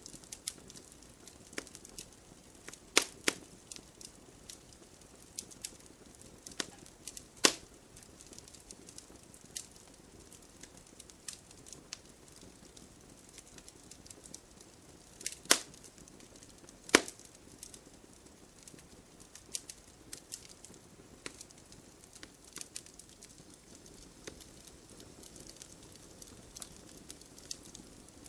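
Wood bonfire crackling: a soft steady hiss with scattered small pops and a few loud sharp snaps, two close together about three seconds in and two more around fifteen to seventeen seconds in.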